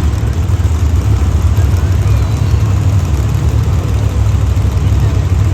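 Monster truck engine running with a loud, steady low rumble over arena crowd noise.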